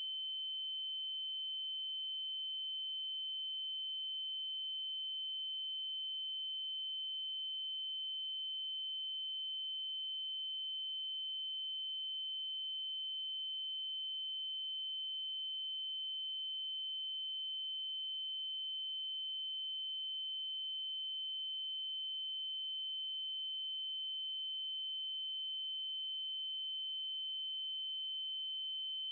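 Continuous electronic test tone: a 3072 Hz triangle wave, one steady high-pitched pitch that does not change, with faint overtones above it.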